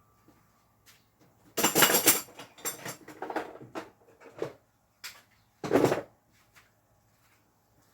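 Rummaging through gear to find power-tool battery packs: handling and clattering noises in bursts, the loudest about a second and a half in, with a short burst of noise near six seconds.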